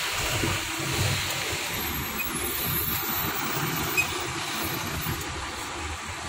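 Heavy truck engine running slowly, a steady low rumble with a hiss of noise above it.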